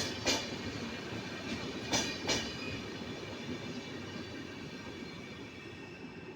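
Train cars rolling past over the rails, wheels clacking in pairs over a rail joint, two knocks at the start and two more about two seconds in, over a steady rumble that fades toward the end.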